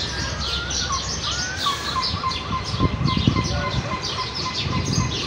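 A group of house sparrows chirping, many short quick chirps overlapping without a break, over a low rumble of background noise that swells about three seconds in.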